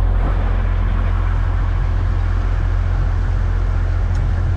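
Boat engine running steadily while under way, with a constant low drone and a steady rush of wind and water.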